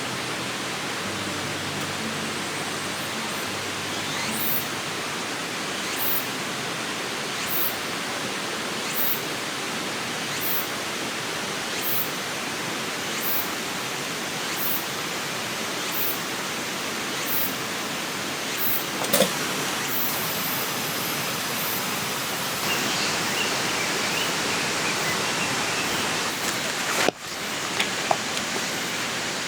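Steady rushing of a river flowing past, an even wash of water noise with a faint high tick repeating about every second and a half.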